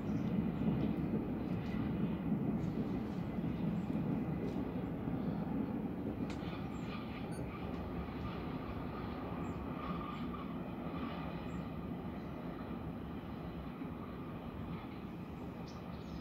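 ÖBB Railjet passenger train running downhill on a mountain line, a steady low rumble that slowly fades.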